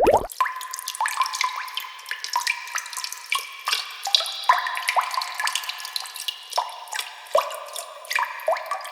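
Water dripping sound effect: irregular drops plinking into water, about two or three a second, each with a short ringing pitch.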